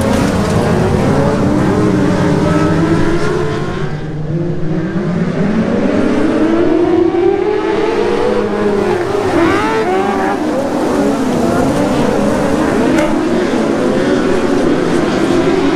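Several TQ midget race car engines running together, their pitch rising and falling as they race.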